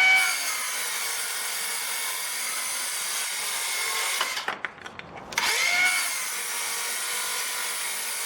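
Bauer 20V cordless 6.5-inch circular saw running and cutting slowly through a 2x4. It stops a little over four seconds in, then spins up again with a rising whine about a second later and carries on cutting.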